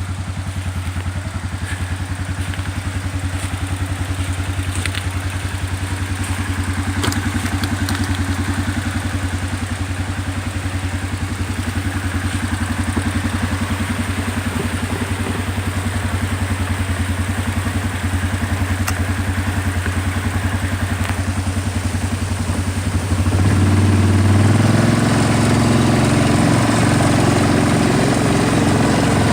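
Small vehicle engine running steadily at low speed. It gets louder and heavier about 23 seconds in.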